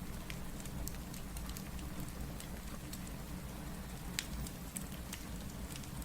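Steady rain mixed with a crackling fireplace: a constant wash of rain over a low rumble, with many sharp, irregular pops and snaps, one louder pop about four seconds in.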